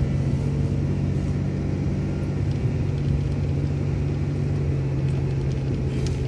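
City transit bus engine running at a steady speed while the bus drives, a low drone at an even pitch. A brief hiss comes near the end.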